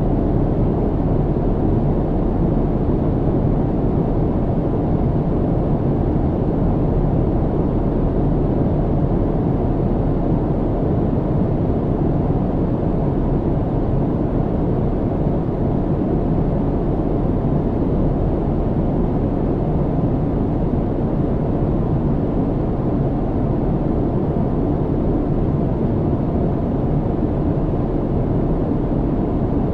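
Steady low rumble of cabin noise inside a flying airliner: engine and airflow noise heard through the fuselage, even and unchanging, weighted to the low end.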